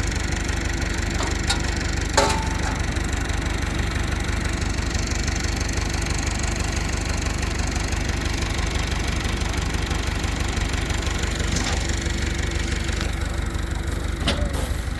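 Combine harvester running steadily, with a few sharp knocks, the loudest about two seconds in.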